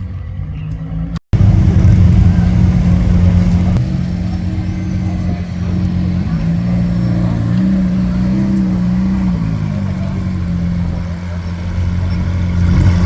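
Lamborghini Aventador's V12 engine running loud and low. There is a brief dropout about a second in. The engine note rises in the middle and drops back again.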